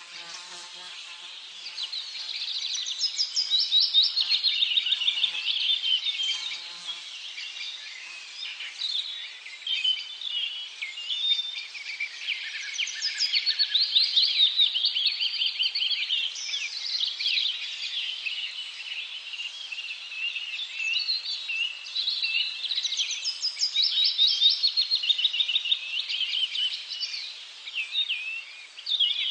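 Several birds singing together, a busy chorus of quick high chirps and trills.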